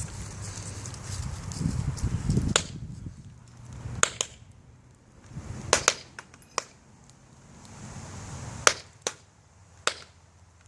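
A burning tube TV popping and cracking: about eight sharp pops at irregular intervals, some in quick pairs, with a low rumble in the first few seconds.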